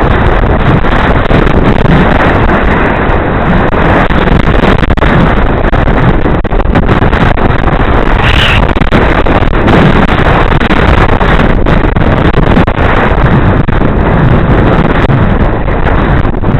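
Heavy wind buffeting a helmet-mounted camera's microphone while cycling, a loud, steady rushing roar, with a brief higher hiss about eight seconds in.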